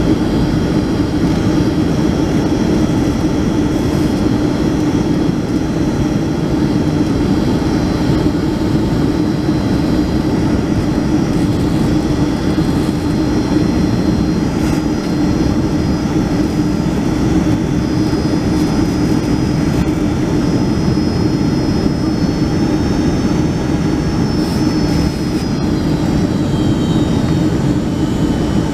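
Cabin noise of a Boeing 757-200 with Rolls-Royce RB211 engines on approach: a steady jet engine and airflow rumble with thin high engine whines that shift down in pitch near the end.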